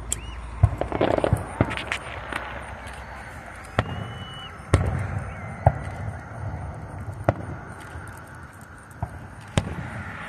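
Distant aerial firework shells bursting: about ten sharp bangs at uneven intervals, with a quick cluster of pops and crackles about a second in.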